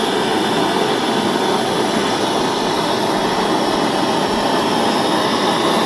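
Steady, unbroken rushing hiss of a gas soldering torch flame used for silver-soldering eyeglass frames.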